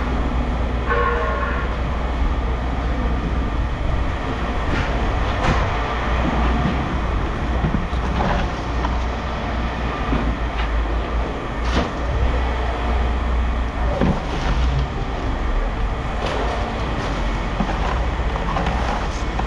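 Steady low engine rumble from working machinery, with scattered metal clanks and knocks as scrap metal is handled and dropped.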